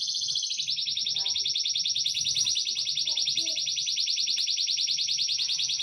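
A songbird's long, rapid, high-pitched trill, held unbroken for several seconds.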